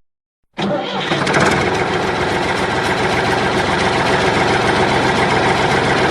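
A small motor switches on abruptly after a brief silence and runs steadily at an even speed.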